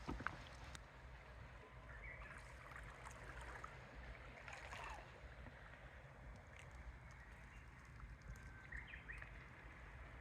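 Quiet waterside ambience: a low steady rumble with a few faint bird chirps and light clicks.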